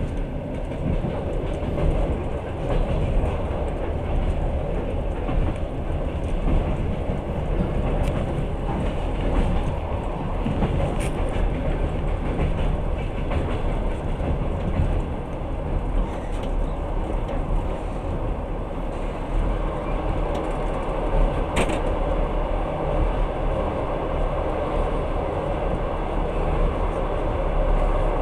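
Passenger train running at speed, heard from inside the carriage: a steady low rumble and rail noise, with two sharp clicks, about a third of the way in and again about three quarters in.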